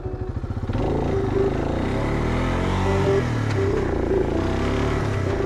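ATV engine idling, then speeding up about a second in and running steadily as the machine drives off, its engine note shifting with speed.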